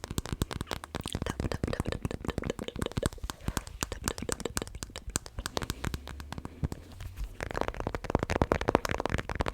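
Quick, dense tapping on an old mobile phone, many taps a second, growing louder about seven and a half seconds in.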